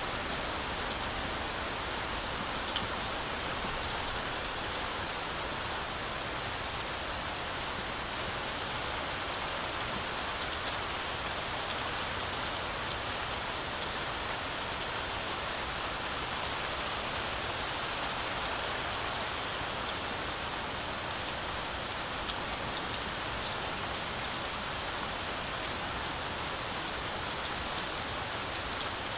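Heavy, steady rain falling through a forest canopy, with a dense hiss of drops and scattered individual drop ticks.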